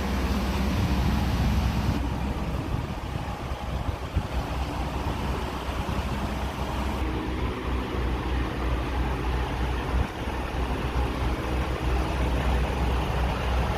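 Semi truck's diesel engine running steadily with a low drone.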